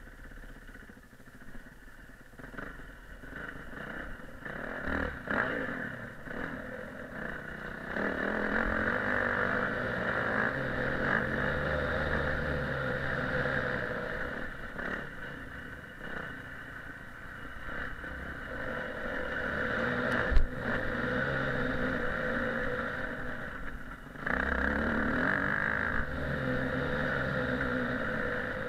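Motocross bike engine revving up and easing off again and again as it is ridden, loudest in two long pulls through the middle and near the end, with a single sharp knock about twenty seconds in.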